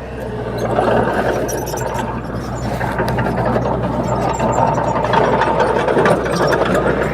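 Komatsu D21P small bulldozer's diesel engine running steadily, with metallic rattling and clicks over it.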